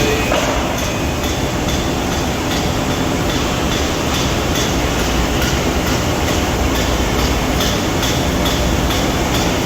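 Hydraulic pump and motor of a 600-ton Accurpress CNC press brake running steadily: a dense mechanical hum with a faint, regular ticking.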